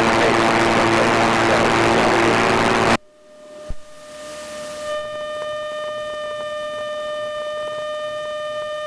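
A loud rushing, static-like noise in the cockpit radio and intercom audio cuts off abruptly about three seconds in. A steady, high, siren-like tone then comes in and holds.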